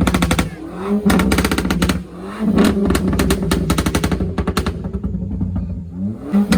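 Car engine revved hard about three times, each rev rising in pitch and then breaking into a long, rapid stutter of pops from the exhaust.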